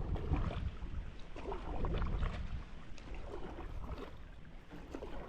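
Canoe being paddled against a strong current: paddle strokes and splashing water around the hull, over a steady low rumble of moving water and wind.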